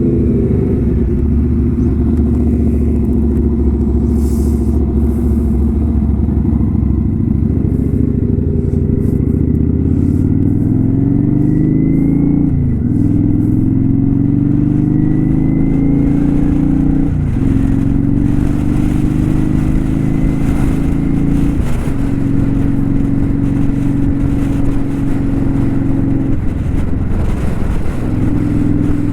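Kawasaki Vulcan 900 Custom's V-twin engine heard from the saddle, running steadily at first, then pulling away and rising in pitch, with four upshifts where the revs drop suddenly before climbing again.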